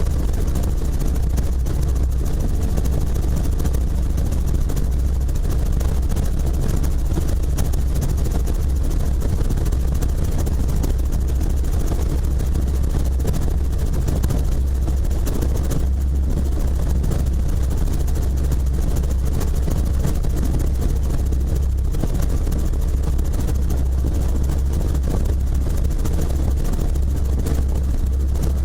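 Helicopter running steadily: a loud, unchanging low drone of rotor and engine with a fast, even beating.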